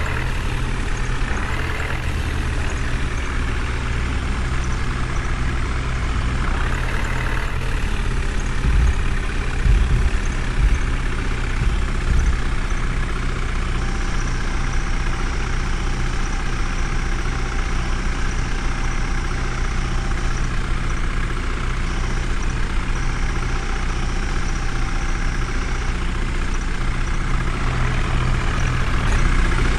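Heavy diesel engine running steadily, with a few heavier low thumps around ten seconds in.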